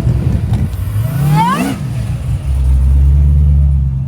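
Car engine revved once, its pitch climbing quickly and falling back, then running with a steady deep rumble.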